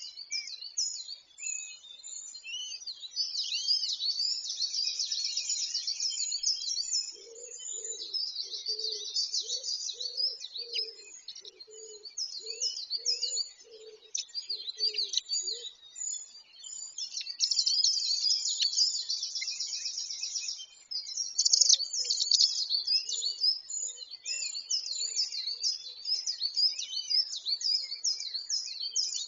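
Several birds chirping and singing at once, with fast trills and short repeated calls. A low, even note repeats about one and a half times a second for several seconds in the middle and briefly again later.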